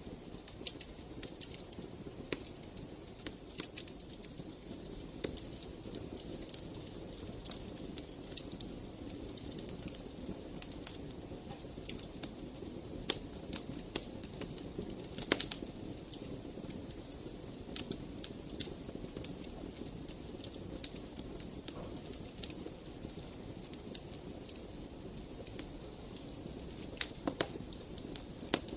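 Wood fire in a fireplace crackling, with irregular sharp pops and snaps over a steady low rush of the flames.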